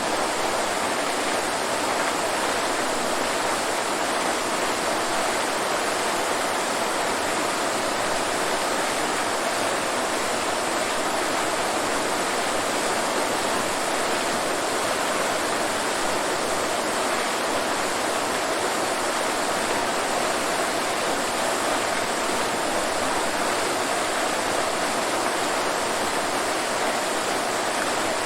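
Waterfall: falling water rushing in an unbroken, even roar, mostly mid and high in pitch with little deep rumble.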